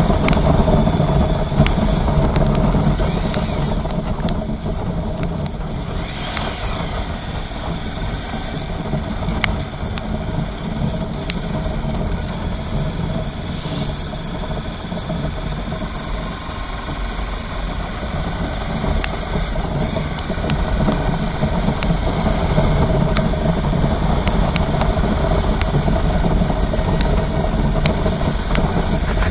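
Rain falling steadily, a continuous rushing with scattered sharp ticks of drops striking close by.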